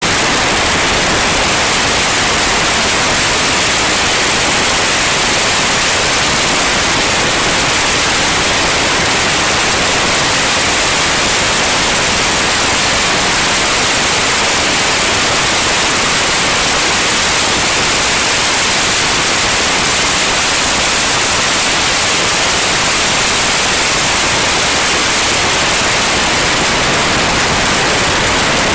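A loud, steady hiss with no tone standing out: wind and engine noise inside a small airplane's cabin in flight.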